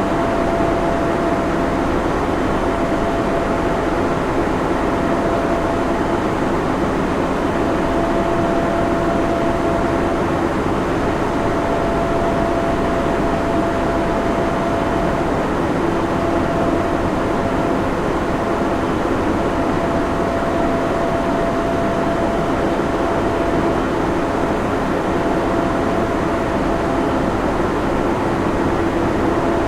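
Server room ambience: a steady rush of cooling fans with a low hum and a thin whine that fades in and out.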